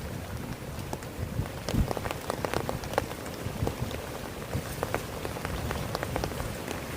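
Heavy rain falling on a tent: a steady hiss of rain with many separate, sharp drop hits throughout.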